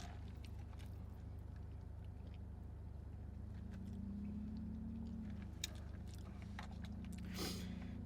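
Faint chewing and mouth clicks of a person eating, over a steady low hum.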